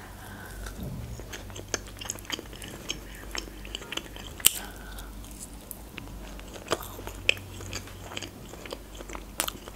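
A person biting and chewing a crisp breaded fried chicken cutlet, with a run of short crunching crackles from the crust. The loudest crunch comes about halfway through, with another near the end.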